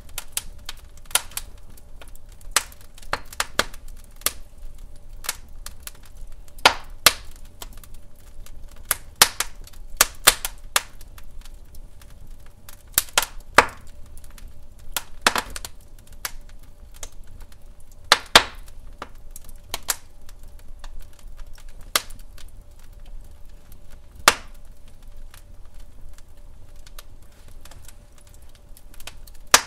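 Log fire crackling in a fireplace: irregular sharp pops and snaps, several loud ones, over a low steady rumble of the burning.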